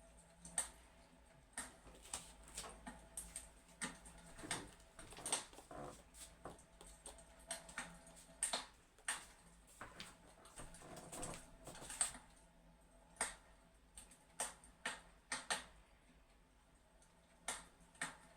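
Fireplace crackling: quiet, irregular sharp pops and clicks, some bunched into short runs of crackle.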